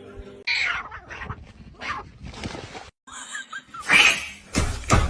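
A pet's short cries, several separate calls. The sound cuts out suddenly just before three seconds in, and the loudest call comes about four seconds in.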